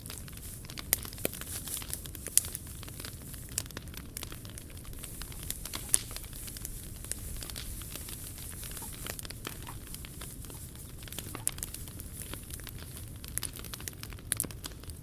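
Wood fire crackling in a portable wood stove, with irregular sharp pops, the loudest about 1, 2.4 and 6 seconds in, over a steady low rumble.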